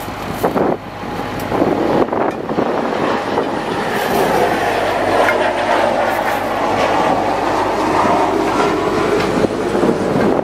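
A 2000 Chevrolet C7500 ladder truck at work: a steady mechanical rumble with metallic clatter and a whine that dips and then rises again over the last several seconds.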